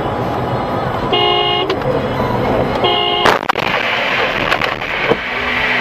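Car horn honking twice, two short blasts about a second apart, over steady road and engine noise; a sharp bang comes right as the second honk ends, with a couple of lighter knocks after it.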